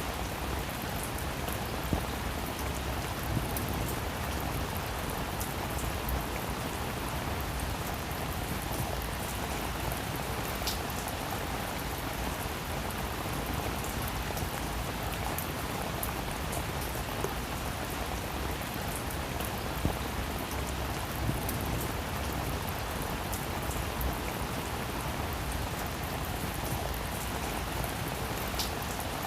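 Steady rain falling on a roof, an even hiss with the occasional louder drop ticking.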